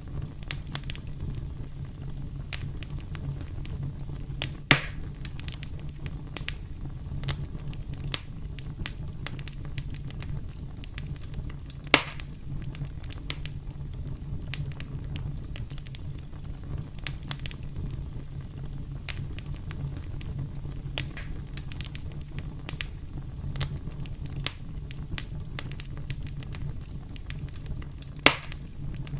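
Wood campfire crackling: a steady low rumble of burning under frequent small crackles, with three louder pops, about five seconds in, about twelve seconds in and near the end.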